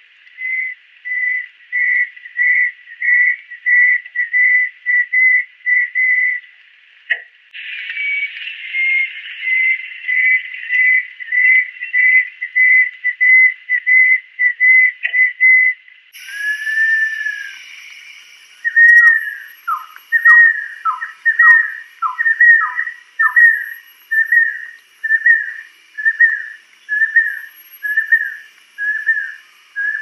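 A bird whistling long series of clear, evenly repeated notes, about two a second. The recording changes abruptly twice; the last part opens with one long drawn-out whistle, followed by notes that sweep downward.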